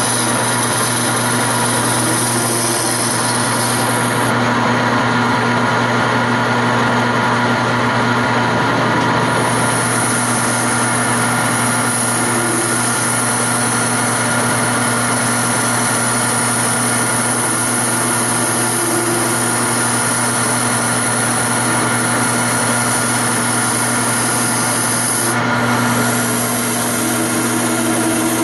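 Wood lathe running steadily with a constant motor hum, while a tool rubs against the spinning wooden chair leg as it is turned.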